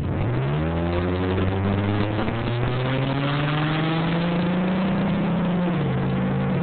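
Chevy engine at full throttle, heard from inside the cab: its pitch climbs quickly in the first second, keeps rising slowly, then drops slightly near the end.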